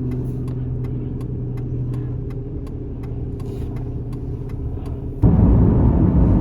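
Car running, heard from inside the cabin: a steady low engine and road hum with faint regular ticks, which cuts about five seconds in to a louder, rougher road rumble.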